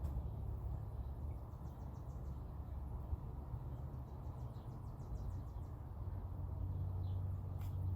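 Low, steady outdoor rumble of wind on the microphone. Twice, a faint rapid trill of high ticks sounds over it.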